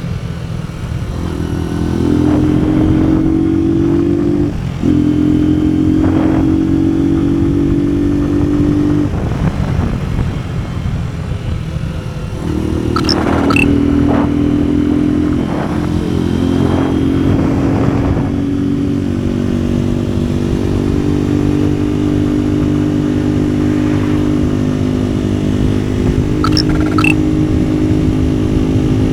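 NKD 125 cc motorcycle engine pulling under load, its pitch climbing in steps with short breaks between, as at gear changes. It eases off for a few seconds around the middle, then pulls up through the gears again.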